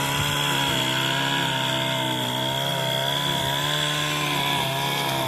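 Echo SRM 225 string trimmer's 25cc two-stroke engine running steadily, its pitch wavering slightly.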